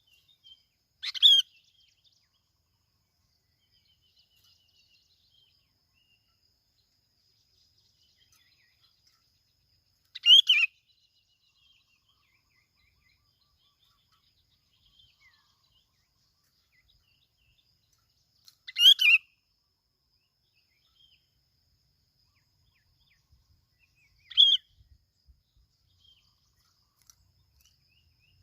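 Bulbul (bông lau) giving four short calls spaced several seconds apart, the third close to a second long and the others briefer.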